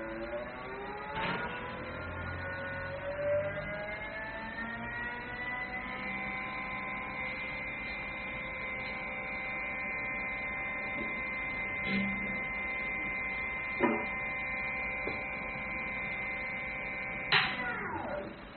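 Blizzard mixer's spindle motor spinning up with a rising whine over the first several seconds, then running at a steady pitch. Near the end it is switched off and the whine falls away. A few short clicks come along the way.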